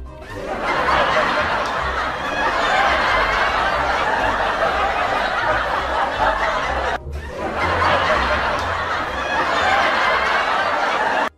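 A person laughing hard and breathlessly, a wheezy laugh with little voice in it, in two long runs with a short break for breath about seven seconds in.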